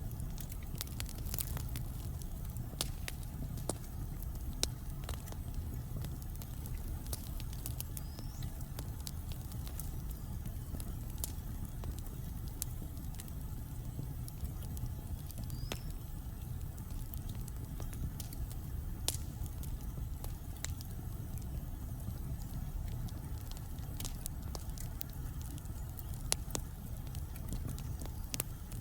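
Wood fire burning in a fireplace: scattered sharp crackles and pops, a few a second, over a steady low rumble of the flames.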